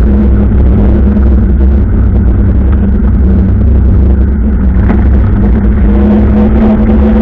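A vehicle engine running steadily at speed with a constant hum, over a loud, deep, steady rumble.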